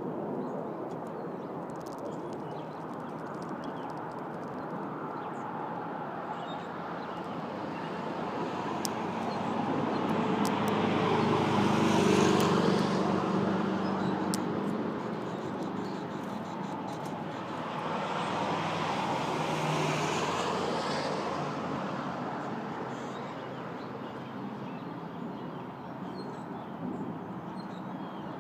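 Road traffic: two vehicles pass one after the other, each swelling up and fading away, the first louder and passing about twelve seconds in, the second about eight seconds later, over a steady traffic hum.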